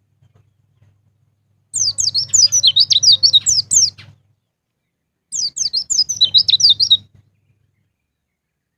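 Pleci (white-eye) singing two bursts of rapid, high chirping song, each a quick run of falling notes lasting about two seconds.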